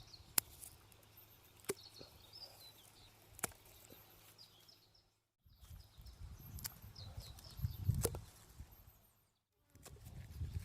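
Outdoor ambience with small birds chirping faintly, a few single sharp taps or knocks, and low rustling and handling noise in the second half.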